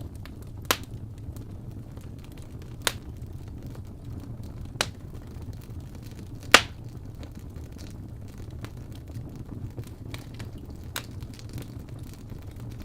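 Wood fire crackling: a low steady rumble with fainter crackles throughout and sharp pops, four of them standing out, the loudest about six and a half seconds in.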